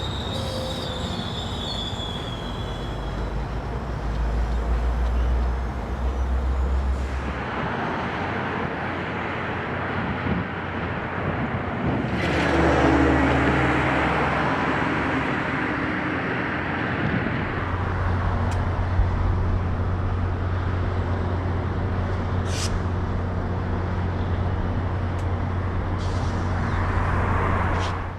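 Commuter train hauled by a GO Transit F59PH diesel-electric locomotive running past. The engine's low drone shifts pitch several times over a steady rushing of wheels on rail, with a few sharp clicks.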